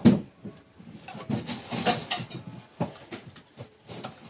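Irregular short clinks and knocks of dishes, utensils and glasses being handled at a table during a meal, about a dozen in a few seconds, the loudest right at the start.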